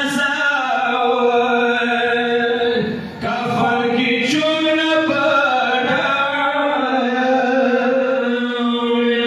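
A man's voice chanting in long, held notes, with a brief break about three seconds in.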